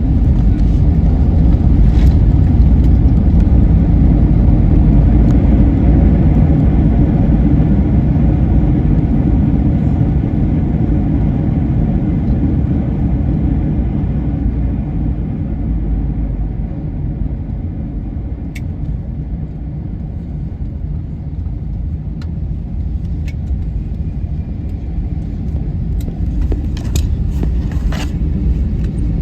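Airliner cabin noise: a loud, steady low rumble from the jet engines and airflow that eases off over the first twenty seconds, then builds a little again. A few sharp rattles from the cabin come through, two of them close together near the end.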